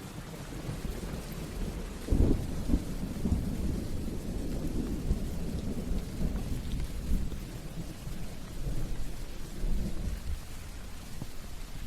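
Rain falling steadily during a thunderstorm, with a roll of thunder: a sharp crack about two seconds in, then low rumbling that goes on and dies down near the end.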